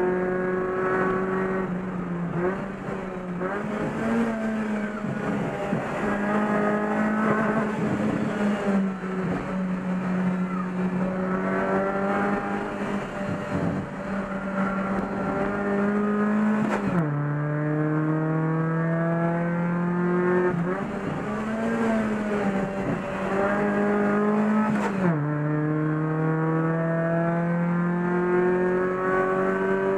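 Racing Chevrolet Corsa engine heard from inside the cabin, pulling hard through the gears. Its pitch climbs steadily and drops sharply at an upshift a little past halfway, then climbs and drops again at a second upshift near the end. Early on and again before the second shift it wavers and dips as the driver lifts off for corners.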